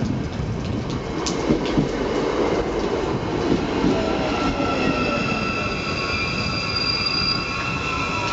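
Hyundai Rotem Matangi FP-class electric multiple unit moving along the platform, with wheel-on-rail rumble and a few clicks. About four seconds in, steady high whining tones from its VVVF traction inverter come in, along with fainter gliding motor tones.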